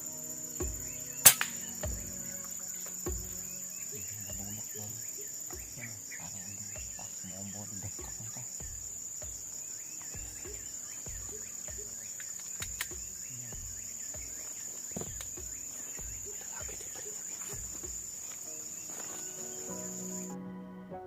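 Steady high-pitched drone of insects, with soft background music underneath. A sharp click about a second in, and the insect drone cuts off suddenly near the end, leaving only the music.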